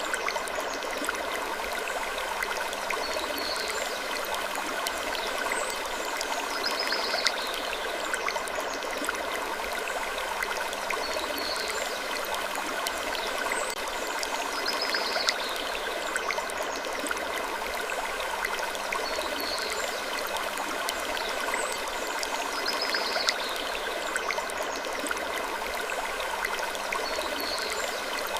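Ambience of wood creaking: short creaks recur every few seconds over a steady rushing, water-like hiss scattered with small clicks.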